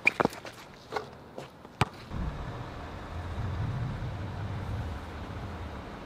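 A few sharp knocks from basketball play on a court in the first two seconds, then the steady low rumble of an idling car.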